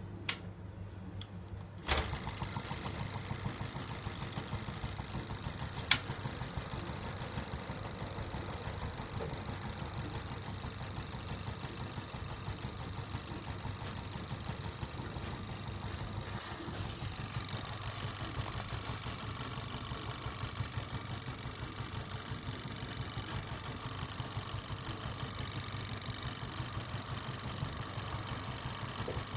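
Homemade gamma-type Stirling engine running, a rapid, even clatter of its moving parts that sets in sharply about two seconds in. There is a sharp click just after the start and another a few seconds later.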